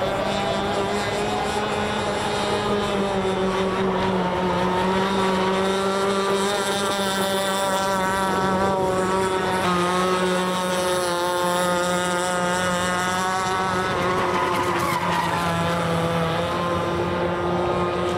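Radio-controlled model boat running on the water, its motor giving a steady whine that rises and falls slowly in pitch as the throttle changes.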